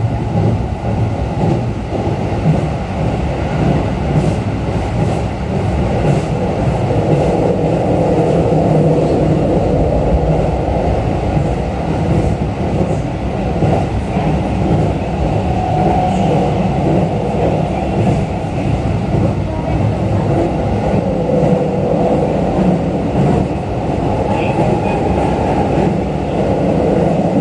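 Steady running noise inside a Keikyu New 1000 series electric train car moving at speed: a continuous rumble of wheels on rail and running gear.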